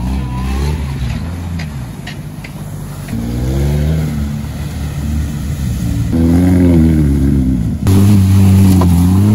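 Off-road Jeeps, among them a Wrangler and a Grand Cherokee, with their engines revving hard and rising and falling in pitch as they plough through mud holes. The engine sound changes abruptly about three, six and eight seconds in as one clip cuts to the next, with a few sharp clicks in the first couple of seconds.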